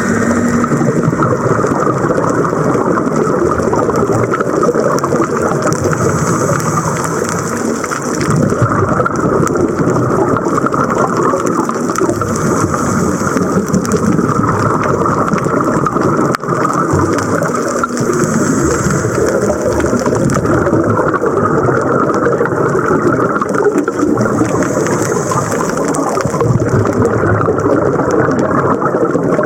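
Steady rushing, rumbling water noise, as heard from underwater, with brighter swells every several seconds.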